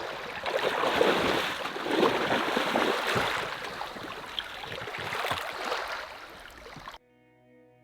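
Seawater sloshing and splashing in the shallows at the shoreline, in uneven surges about once a second. About seven seconds in it cuts off abruptly, and quiet guitar music begins.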